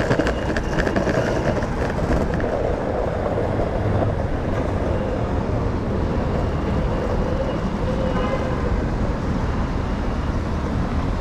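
Steady vehicle and road traffic noise with a low rumble.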